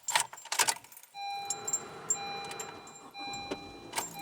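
Keys jangling and clicking, then from about a second in a steady electronic beeping tone that breaks off briefly twice.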